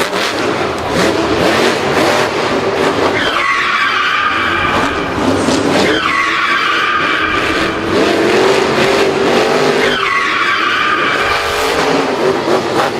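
Racing vehicle engines revving hard, with tyre skidding. Three times, a little over 3 s in, at about 6 s and about 10 s in, the engine whine drops sharply in pitch and then holds.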